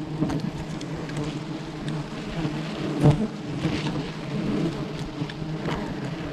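Wild honeybees buzzing steadily in a swarm around their hive, a low continuous hum. Short knocks or cracks come through it, the loudest about three seconds in.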